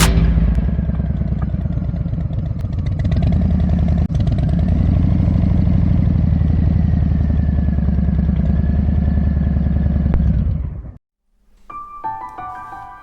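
Harley-Davidson Street Bob 114's V-twin engine running under way, its note rising about four to five seconds in. The engine sound cuts off abruptly near the end, and soft piano music follows.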